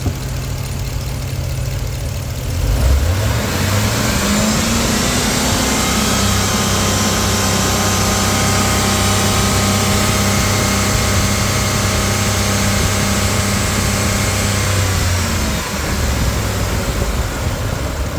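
GM 4.8-litre V8 gasoline engine idling, then revved up about three seconds in and held at a steady raised speed for about twelve seconds before dropping back to idle.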